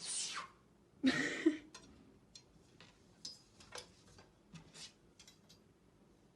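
Two short hissy bursts, one at the start and one about a second in, followed by faint, irregular clicks and light taps.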